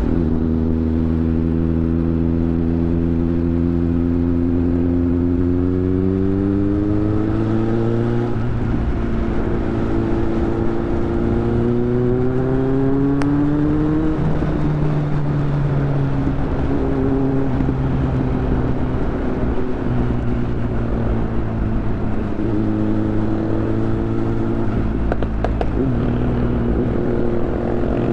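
Superbike engine running under way, its pitch climbing as it accelerates and dropping at each upshift, about three times, before settling into a steadier cruise.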